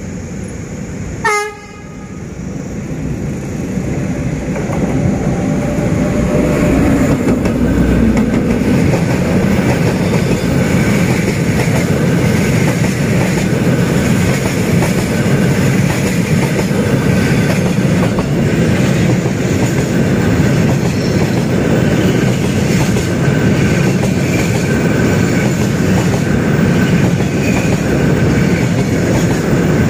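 D20E diesel locomotive sounds a brief horn blast about a second in, then the rumble of the approaching train builds over a few seconds. Its freight train passes close by, the wagons rumbling and clattering steadily over the rail joints.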